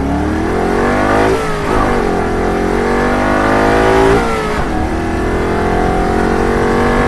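A motor vehicle engine accelerating: its pitch rises, drops sharply about a second in and again about four seconds in, as if shifting up a gear each time, then holds steady.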